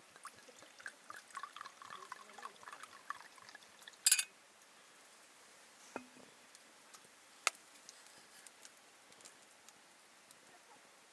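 Liquid poured from a bottle into a glass, gurgling in small blips for about three seconds. A short loud clatter follows, then two single knocks.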